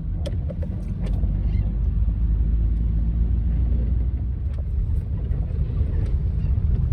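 A van's engine and road noise heard from inside the cab while driving, a steady low rumble, with a few faint ticks.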